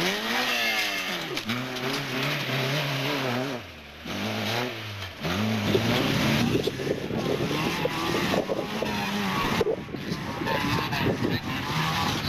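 Rally car engine revving hard, its pitch sweeping up and down and stepping through gear changes. In the second half it is joined by a dense rattle of short clicks and knocks.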